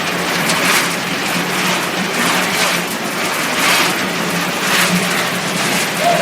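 Corn puffed-snack production line machinery running: a steady low hum under a loud rushing noise that swells about once a second.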